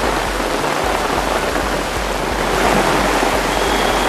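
Heavy rain falling in a strong, gusty storm wind: a steady rush of noise that swells slightly a little past the middle.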